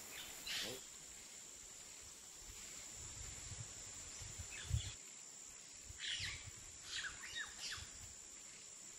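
Outdoor park ambience: birds chirping in short calls, a cluster of them from about six to eight seconds in, over a faint steady high hum. A soft low thump about halfway through.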